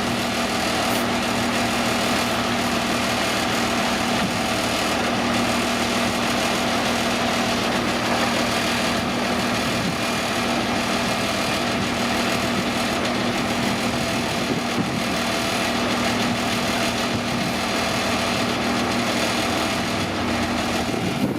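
Komatsu D41P crawler bulldozer's diesel engine running at a steady, even speed, with a constant hum and no change in pitch.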